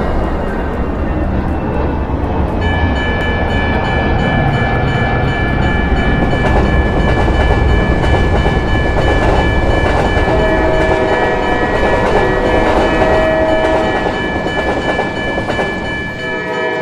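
A train passing, with a heavy steady rumble and wheel clatter on the rails. From about three seconds in, a steady chord of high ringing tones sounds over it. A lower held horn-like tone comes in around ten seconds and stops a few seconds later.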